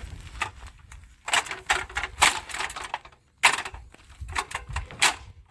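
Irregular clattering, knocking and scraping of things being handled, coming in several quick runs of clicks with a short pause between them, as in someone working on pipes and fittings.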